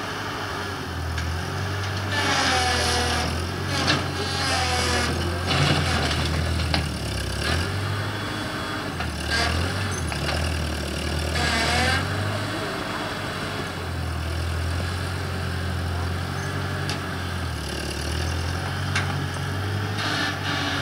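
Ford 8N tractor's four-cylinder flathead engine running steadily, its pitch stepping up and down as it works, with a few sharp clanks in the first half.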